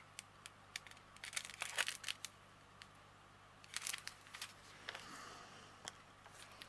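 Small plastic bags of diamond painting drills crinkling as they are handled, in two short bursts with scattered light clicks between.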